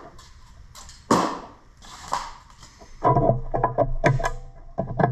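Two short noises from working on the wiring, a sharp one about a second in and a softer one about two seconds in, then background keyboard music starts about three seconds in and is the loudest sound.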